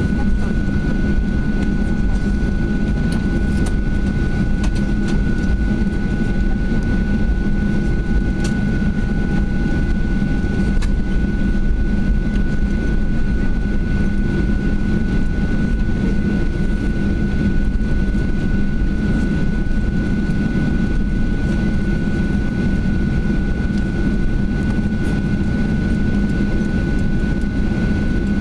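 Steady cabin noise inside a Boeing 737-800 taxiing on the ground, its CFM56 engines at idle: a low hum and rumble with a steady high-pitched whine over it.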